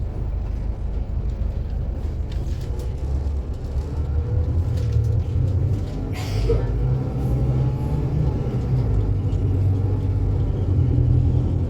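Inside a Scania K280UB city bus on the move: its five-cylinder diesel and the road give a steady low rumble. A short hiss of air comes about six seconds in.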